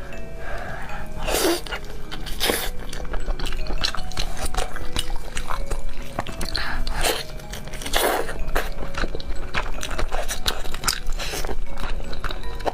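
A person biting and chewing meat: a run of sharp, irregular bites and chews, several each second.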